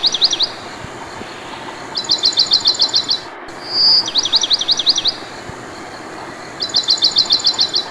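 Songbird singing in a repeating phrase: a rapid run of about ten high notes, a short clear whistle, then a quick series of down-slurred notes. The phrase comes back about every four to five seconds over a steady hiss, like a looped birdsong track.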